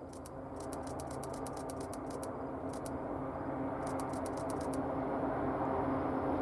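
Approaching diesel freight locomotive, its engine rumble and low hum growing steadily louder. Runs of quick, sharp clicks come and go over the first few seconds.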